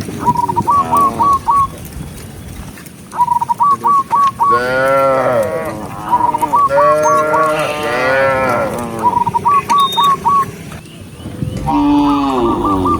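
Cattle mooing: several long, drawn-out calls. About every three seconds a short run of four or five quick, high chirping notes repeats alongside them.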